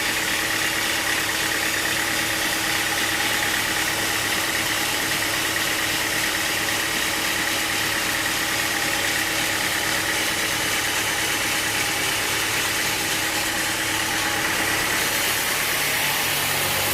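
Sawmill machinery running steadily: a constant engine-like hum with a steady high whine, without changes in load.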